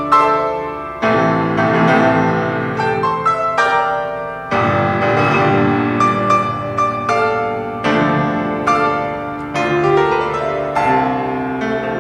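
Piano playing a slow piece, with chords struck every second or so and left to ring.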